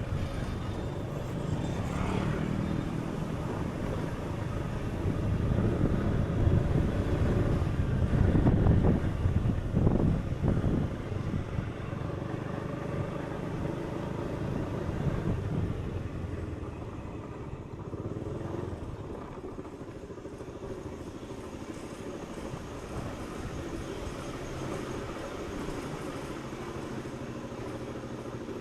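Low rumbling noise, with faint steady tones underneath, that swells louder about six to eleven seconds in and then settles to a steady level.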